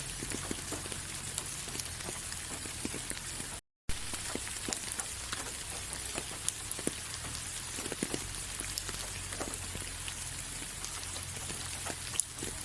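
Steady rain falling, with many distinct drops striking close by over an even hiss. The sound cuts out completely for a split second about four seconds in.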